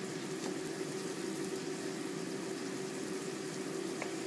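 Chopped beef sizzling steadily as it stir-fries in a heavy black pot.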